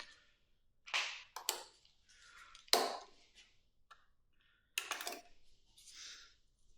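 A few sharp clicks and knocks of hand tools being handled, with audible breaths and sighs between them, during a struggle with a stuck screw.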